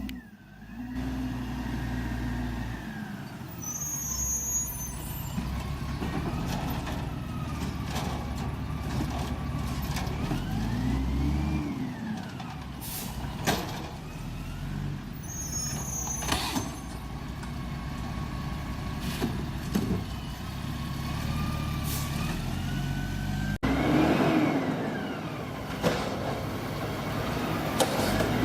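Garbage truck engine running, its pitch rising and falling, with several sharp hisses and clanks and short high squeals along the way.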